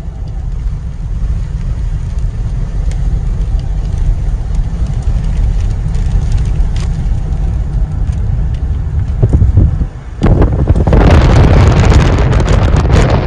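Tornado wind buffeting the microphone as a steady low rumble, swelling about ten seconds in into a much louder, hissing roar.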